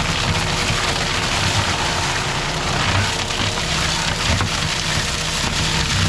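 Skid steer with a forestry mulcher head running under load: diesel engine and spinning cutter drum make a steady, loud rushing grind, with the low engine note rising and falling as it works.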